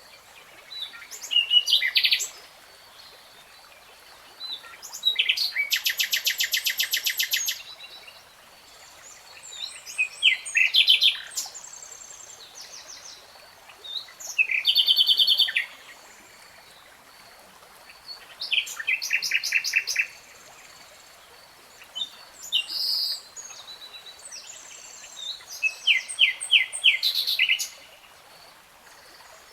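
A songbird singing high-pitched, varied phrases every few seconds, several of them fast trills of repeated notes, over a faint steady hiss.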